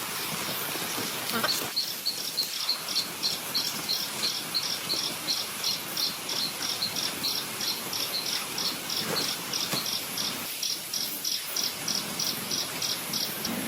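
An insect chirping in a steady, regular pulse, about three to four chirps a second. It starts about a second in, over a constant background hiss.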